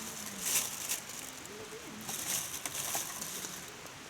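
Firewood burning in a mesh fire pit, crackling with a steady hiss and a few sharp pops.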